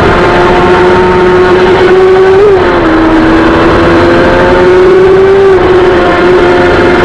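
Suzuki GSX-R sport bike's engine running hard at high, steady revs while riding. The pitch creeps up and drops twice, about two and a half seconds in and again about five and a half seconds in, as it changes gear. Steady rushing noise runs underneath.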